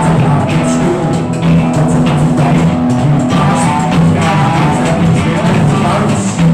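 Rock band jamming an improvised piece, with guitar, bass notes and a drum kit playing steadily.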